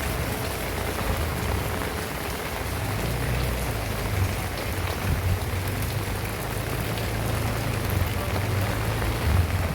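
Heavy rain falling steadily, with a low, wavering rumble underneath.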